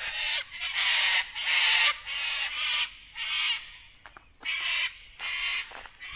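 A bird calling: a series of about eight harsh calls, each roughly half a second long, with short gaps between them.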